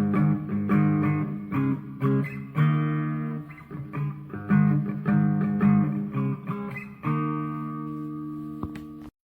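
Guitar playing a riff of picked notes and chords. The last chord rings for about two seconds, then cuts off abruptly near the end.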